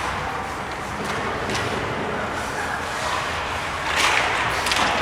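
Ice hockey game sound in an arena: a steady hiss of play on the ice, with a cluster of sharp scrapes about four seconds in, typical of skates cutting the ice.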